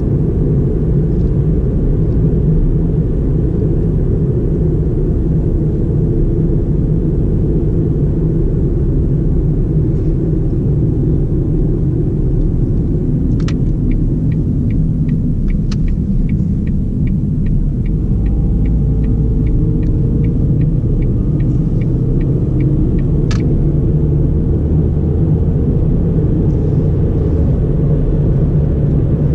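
Ford Fiesta 1.4 four-cylinder with automatic gearbox driving along, a steady low rumble of engine and road noise. Partway through, a click is followed by an even ticking, about two or three ticks a second, for about ten seconds, then another click: the turn signal being switched on and off.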